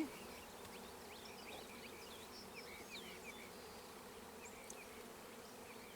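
Honeybee colony buzzing, a faint, steady hum from the bees of an open hive.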